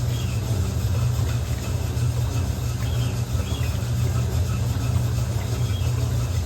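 Electrolux LM08A top-loading washing machine running with a steady low hum through a load of towels.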